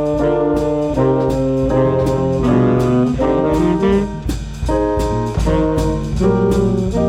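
Swing band playing a jazz tune: saxophones and brass together in chords over bass and drums, with a steady beat.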